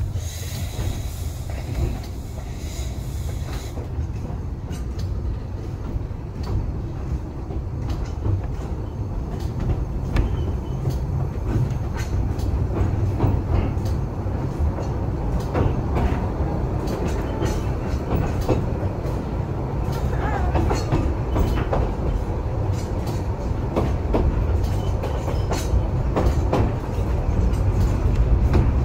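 Narrow-gauge steam train carriages running along the track, heard from a carriage window: a steady low rumble with wheels clicking over the rail joints. A hiss that is likely steam stops about four seconds in.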